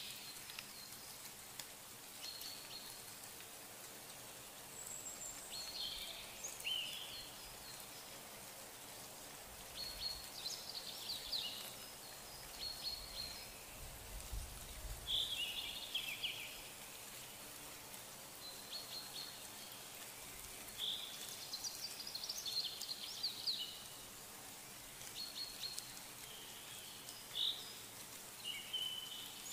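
Birds chirping and singing in short phrases of high notes every second or two, over a faint steady outdoor background, with a brief low rumble about halfway through.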